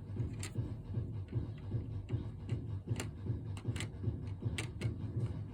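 Scattered light clicks and taps of plastic Lego pieces being handled as a piece is set back in place, over a steady low hum.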